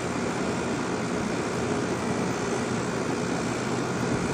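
Carrier Comfort heat pump outdoor unit running steadily in heat mode, compressor and fan giving an even hum. The technician diagnoses the compressor as mechanically failed with loss of compression, so it runs but moves almost no heat.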